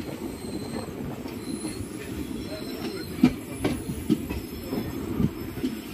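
Passenger express train running on the rails: a steady rumble, with several sharp clacks about halfway through and one more near the end.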